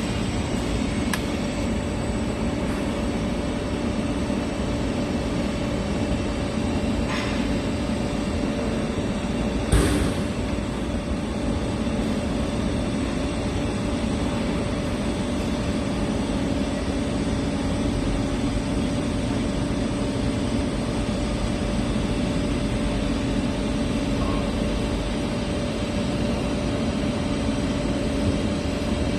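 Steady machine hum with a hiss, unchanging throughout, with one sharp knock about ten seconds in.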